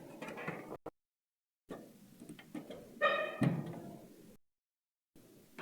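Plastic power-supply cable connectors clicking and knocking as they are handled and plugged back into components inside a computer case. There is a brief squeak-like ring about three seconds in, and the sound cuts out abruptly to silence twice.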